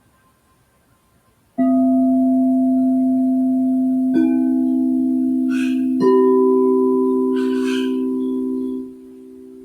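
Singing bowls struck three times, about two seconds apart, each strike adding a new ringing tone at a different pitch so the tones overlap and sustain. Near the end the deepest, loudest tone cuts off suddenly while the higher ones ring on more quietly.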